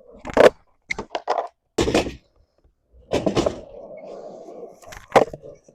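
Skateboard being ridden and flipped: sharp cracks and slaps of the board's tail popping and the deck and wheels hitting the ground, with a spell of wheels rolling in the middle and another sharp slap near the end.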